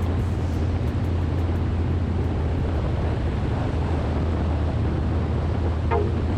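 Motorcycle engine running steadily at cruising speed, a constant low drone under a rushing noise.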